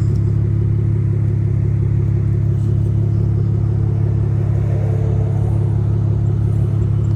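Dodge Challenger SXT's V6 idling with its mufflers deleted, giving a steady, deep exhaust rumble with no revving.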